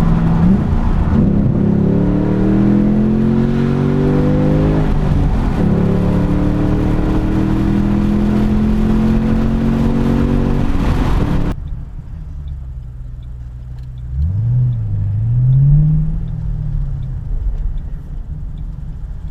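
Ford Mustang's engine accelerating hard, its note climbing in pitch through one gear, dropping at a gear change about five seconds in, and climbing again. About twelve seconds in, the throttle closes and the engine note falls away sharply, followed by a quieter brief rise and fall in revs.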